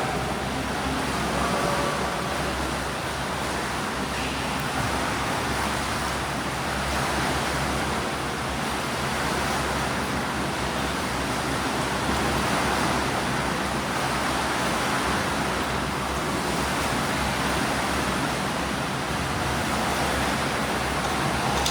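Swimming pool noise: a steady wash of water splashing and churning from swimmers doing breaststroke drills.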